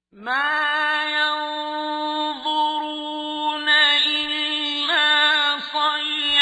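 A man's voice recites the Quran in the melodic mujawwad style. He comes in after a pause and holds one long, steady vowel, with a few brief ornamental turns of pitch.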